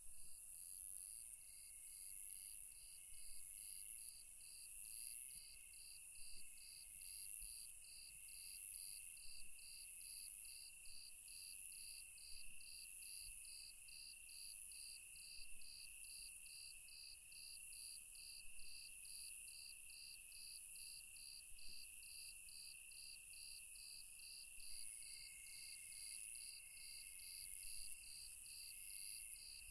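Night insect chorus: a cricket chirping in an even rhythm of about two chirps a second, over a steady high trilling of other insects.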